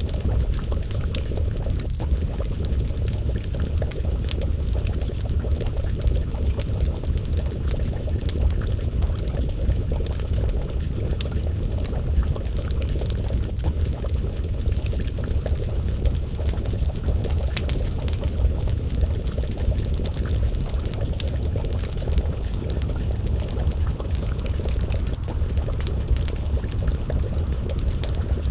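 Wood fire crackling, with frequent sharp pops over a steady low rumble, and a pot of stew bubbling as it simmers over the flames.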